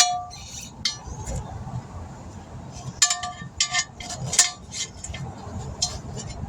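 Metal tools being handled, giving a series of sharp clinks with short ringing, about seven over several seconds, during a roadside tire repair.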